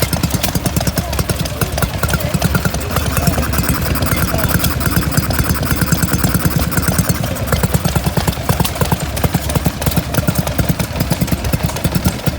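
An engine running steadily, with rapid, even exhaust beats.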